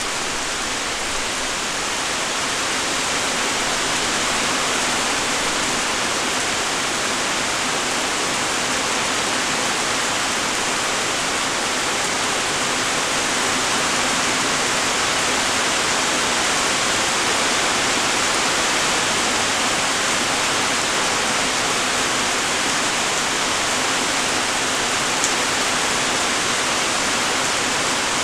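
Steady light rain: an even hiss of falling raindrops, with one sharp tick near the end.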